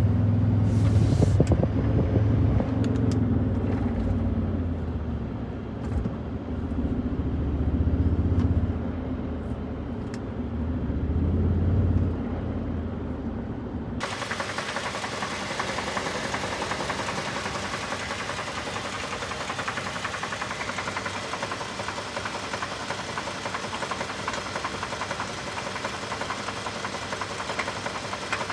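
2024 Toyota Tundra's twin-turbo 3.4-litre V6 running rough with a blown engine; its speed swells and sags unevenly. About halfway through the sound changes abruptly to a steady, brighter clatter with a knock to it.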